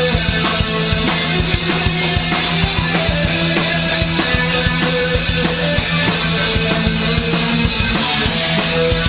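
Punk-rock band playing an instrumental stretch of a song, with drums and guitars and no singing.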